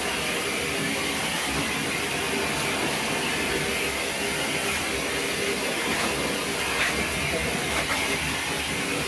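Dog grooming blow dryer running steadily, a constant rush of air over a faint motor hum, drying a freshly bathed dog's coat.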